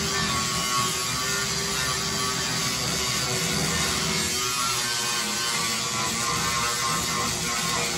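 Power grinder grinding down spot welds on a car's sheet-metal quarter panel, running steadily.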